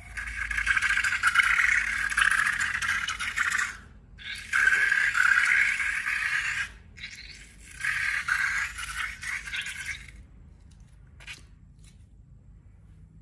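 Scraping in three long strokes of about three seconds each, followed by a single click.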